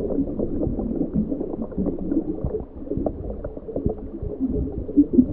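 Muffled bubbling and gurgling water with the high sounds cut away, as if heard underwater.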